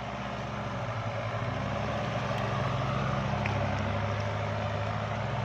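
Kubota tractor's diesel engine running steadily, growing slightly louder.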